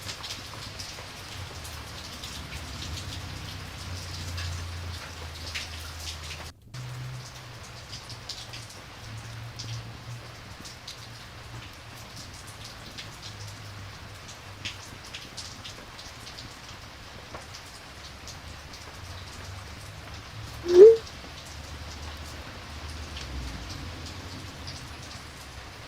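Steady rain ambience with scattered drop ticks, cutting out for an instant about six seconds in. About 21 seconds in, a single short, loud chirp rises in pitch.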